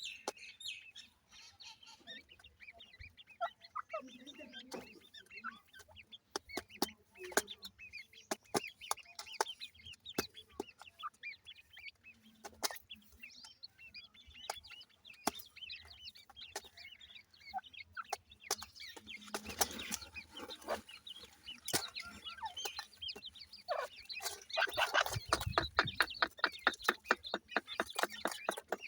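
Grey francolin chicks peeping and chirping with short high calls, mixed with scattered sharp clicks. Over the last few seconds there is a quick run of ticks, about four to five a second.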